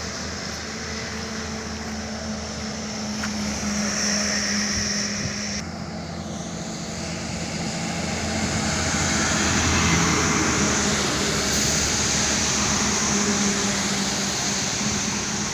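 Truck engine running with a steady drone over road noise, getting louder about halfway through.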